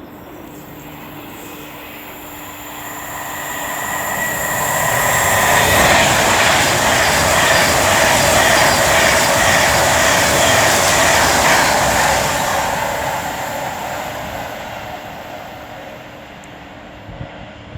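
Class 390 Pendolino electric train passing by. A high whine is heard as it approaches; the sound grows over a few seconds, stays loud for about six seconds as the train goes past, then fades away.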